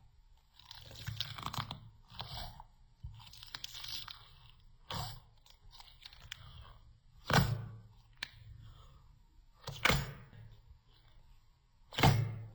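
Crunchy slime being squeezed and pressed by hand, crackling, then three sharper, louder snaps about two and a half seconds apart, the last near the end.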